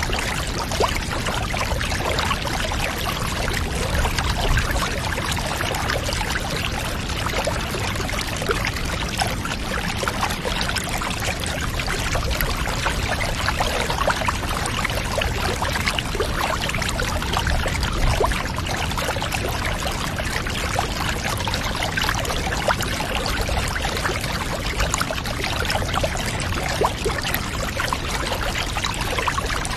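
Running water pouring and trickling steadily, a dense, even splashing with no pauses.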